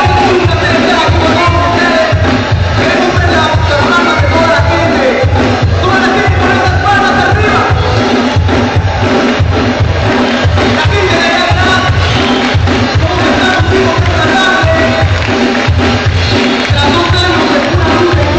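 Live ska band playing loudly, a steady driving beat with a strong bass pulse, with crowd voices mixed in.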